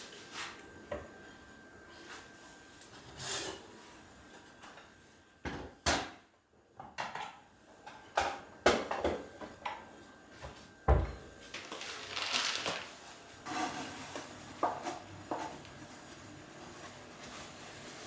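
Kitchen cupboard doors, drawers and food storage containers being opened, closed, handled and set down: a string of separate clicks and knocks, most of them in the middle, with a few brief rustling swishes.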